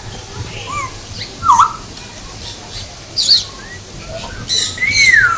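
Several birds calling, with whistled notes that swoop in pitch: loud calls about a second and a half in and just past three seconds, and a long swooping whistle near the end.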